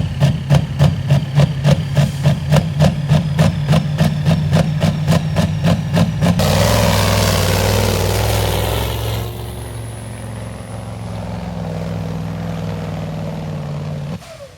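A pulling truck's 11-litre Cummins diesel engine running with an even throb of about three pulses a second. About six seconds in it changes to a steadier, louder run, then eases off, and the sound cuts off abruptly near the end.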